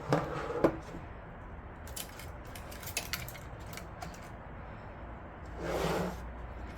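Hands handling computer parts and cables: a few light plastic clicks and rattles, and a short rustle near the end.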